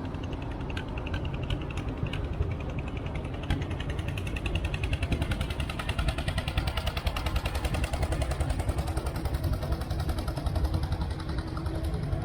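Tractor engine running, with a rapid even clatter that comes in about three to four seconds in and grows louder.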